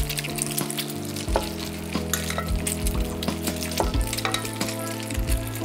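Egg-dipped, jam-filled bread slices sizzling in hot fat in a frying pan, a steady hiss with frequent small pops and crackles.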